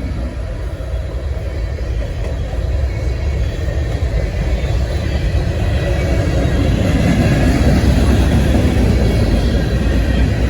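Freight train rolling past, a steady rumble and rail noise that grows louder over the first several seconds.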